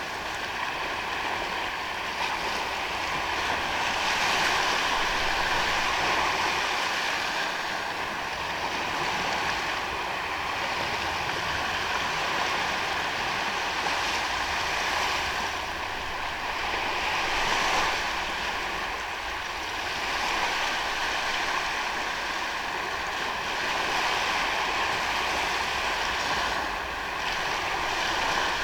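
Small waves washing onto a sandy beach: a steady wash of surf that swells and ebbs every few seconds.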